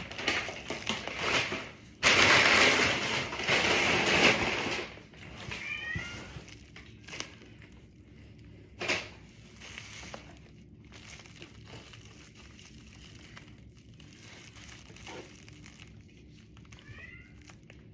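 Rustling and crinkling, the loudest part, for about three seconds near the start, then short high cat meows, once about six seconds in and again near the end.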